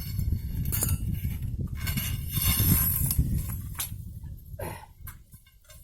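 Steel reinforcing bar being handled and bent by hand, giving irregular knocks and clinks over a low rumble that fades out near the end.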